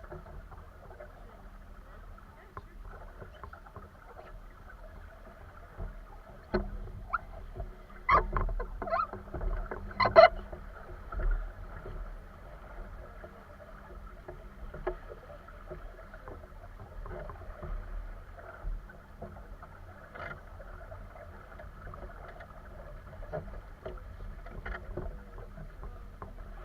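Steady water noise of a small sailboat moving on a lake, with a few sharp knocks and clatters of gear on the boat between about six and eleven seconds in.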